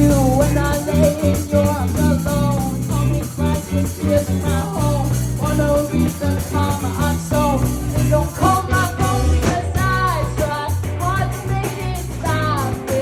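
Live band music: a singer over guitar and bass, with a steady beat.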